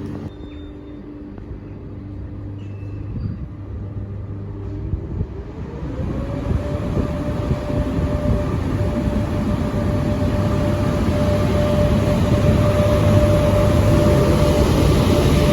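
A train approaching through the station, its rumble growing steadily louder. About five seconds in, a whine rises in pitch and then holds steady.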